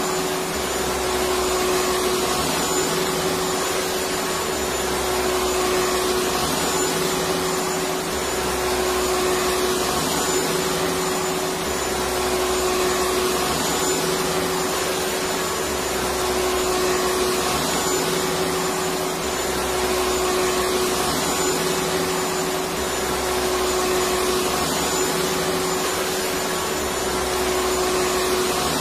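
Electric vacuum cleaner motor running continuously: a steady, dense whir with a held hum tone and a low rumble that shifts slightly every couple of seconds.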